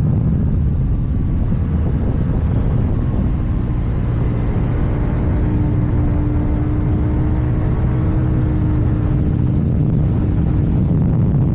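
KTM Duke 790's parallel-twin engine through an Akrapovic exhaust, running at a steady pace under way.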